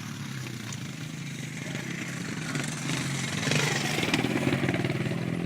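Motocross dirt bike engine running and growing louder over the second half as the rider accelerates toward the jump, its pitch shifting about three and a half seconds in.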